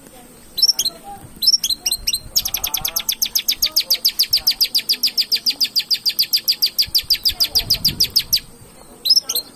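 Long-tailed shrike (cendet) singing. A few sharp high chirps give way, after about two seconds, to a long, fast, even run of repeated notes, roughly ten a second, lasting about six seconds. It ends with a few more chirps near the end.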